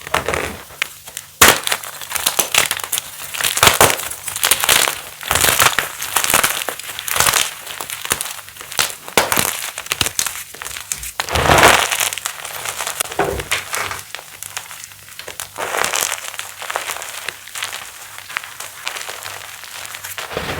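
Thin pieces of pasted (reformed) gym chalk being crushed: a continuous run of irregular crisp crunches and crackles, with a few louder crunches, one about a second and a half in and one near the middle.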